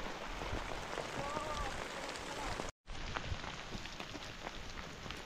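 Steady rain falling, an even hiss of drops. It cuts out completely for a split second about halfway through, then carries on.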